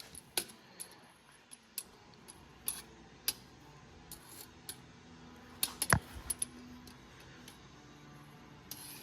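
Scattered light metallic clicks and taps, with one sharper knock about six seconds in.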